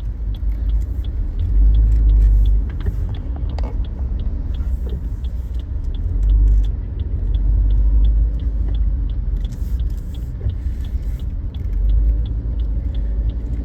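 A car driving in slow traffic, heard from inside: a low engine and road rumble that swells and eases several times, with a light, even ticking about three times a second running through it.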